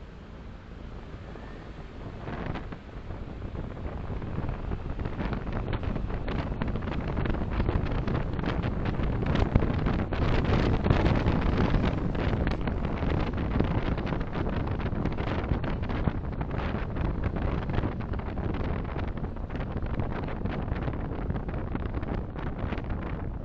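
Car road and wind noise picked up by a dashcam's microphone, a steady rushing that grows louder over the first several seconds and then holds, with gusty crackling buffeting on the microphone.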